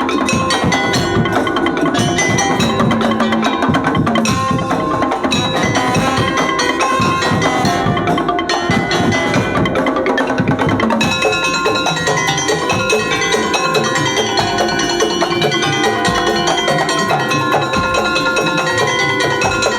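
Madurese traditional gendang ensemble playing: drums with ringing tuned percussion in a dense, driving rhythm. The pattern shifts about halfway through.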